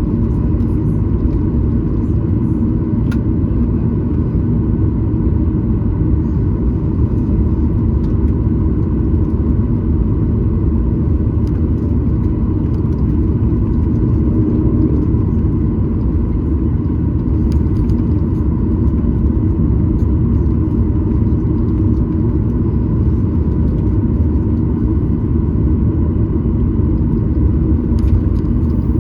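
Cabin noise of a Boeing 737-900ER on the ground with its CFM56-7B turbofan engines running: a steady, loud low rumble with a faint hum above it. A few small clicks are scattered through it.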